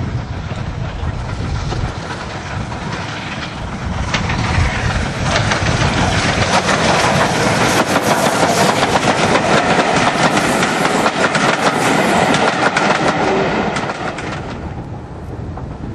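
Steam-hauled train passing close by, its wheels clattering over the rail joints. It builds from about four seconds in, stays loud for several seconds, then drops away near the end. Wind rumbles on the microphone throughout.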